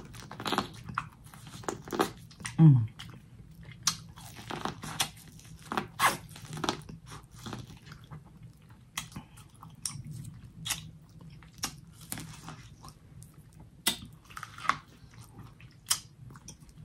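Close-miked mouth sounds of a person eating: irregular wet chewing, smacking and crunching clicks, with a short falling hum about two and a half seconds in. Near the end she bites into a cob of grilled corn.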